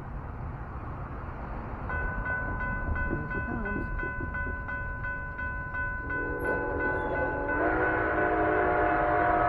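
A train horn sounds a long, steady chord starting about two seconds in. A second, lower chord joins about six seconds in and grows louder. A steady low rumble runs underneath.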